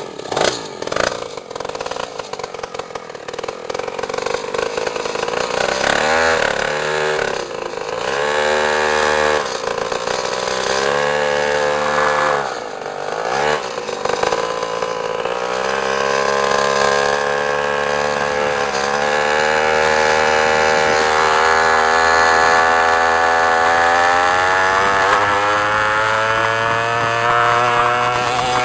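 Mini bike's small engine under way, rising and dropping in pitch several times as it revs and eases off, then climbing in one long steady rise over the last dozen seconds as the bike accelerates hard toward top speed.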